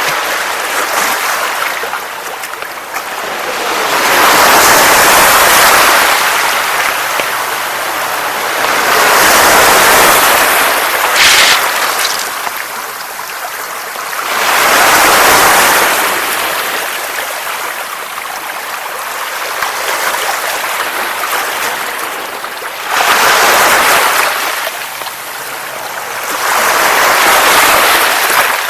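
Sea surf washing onto a beach, the waves swelling and falling back in slow surges every few seconds.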